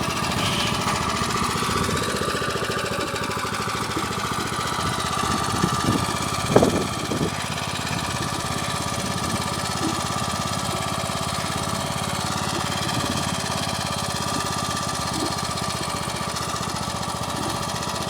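Motor Sich walk-behind tractor engine running steadily, with a brief louder sound about six and a half seconds in.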